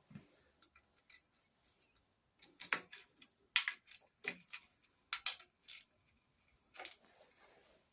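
Irregular scrapes and clicks of a hand tool working on grimy metal of the engine, cleaning muck away from around the bolts before they are undone.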